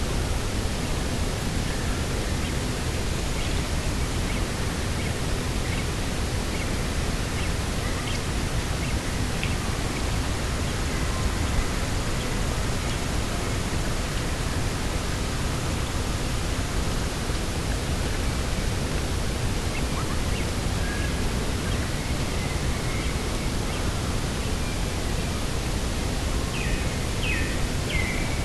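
Steady rushing wind over open coastal ground, with a few faint bird chirps scattered through and a short run of chirps near the end.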